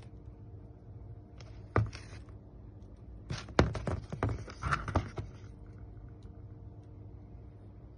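A single knock about two seconds in, then about two seconds of clattering knocks and rustling, over a faint steady hum.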